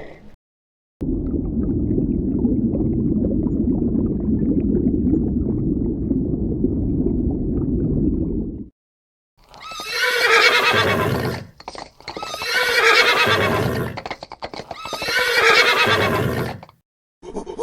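A horse whinnying three times, each neigh lasting about two seconds, in the second half. Before it, a steady low noise runs for several seconds and cuts off.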